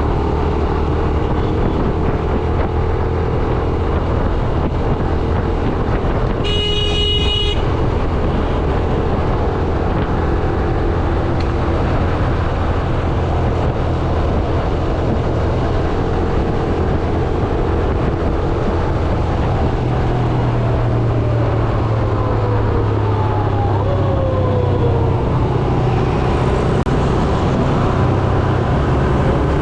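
Yamaha YBR 125G's single-cylinder four-stroke engine running steadily under way in traffic, with road noise. A vehicle horn honks once, briefly, about six seconds in, and a few falling engine tones pass in the second half.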